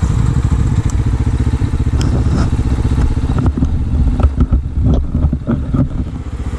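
Small 250 cc motorcycle engine running steadily while riding, with a cluster of knocks and rattles a little past the middle.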